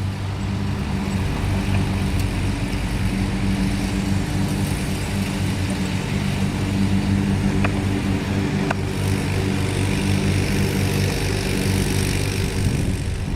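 An engine running steadily at an even pitch, a low hum, with two faint ticks near the middle.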